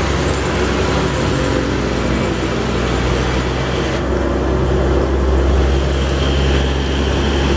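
Steady running of a vehicle engine, a low hum under a dense rush of noise, most likely a truck engine sound effect laid over the toy footage.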